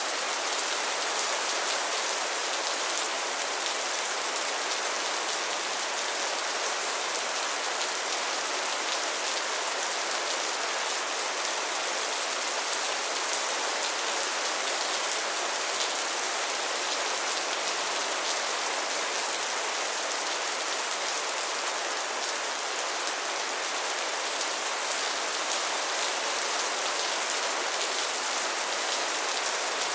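Steady rainfall, a dense even hiss of drops with fine patter on a surface.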